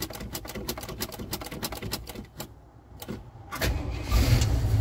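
Starter cranking the 1977 Jeep Cherokee Chief's engine on a cold start, in an even, rapid rhythm that stops about two seconds in. After a short pause the engine catches near the end and runs unevenly, only just starting.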